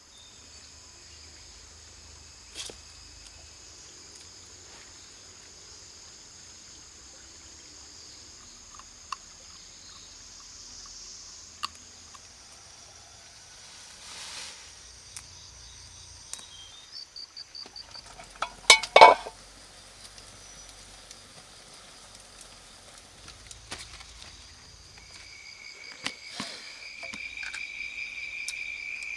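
Rainforest insects chirring steadily in high, unbroken tones, with a pulsed trill partway through and a new steady buzz coming in near the end. Just past the middle comes a quick series of sharp knocks, the loudest sound here.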